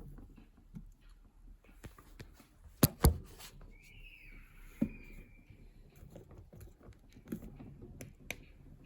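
Quiet handling noises from working on a mini dishwasher's internals: scattered small clicks and taps, with two sharp clicks close together about three seconds in and another about five seconds in.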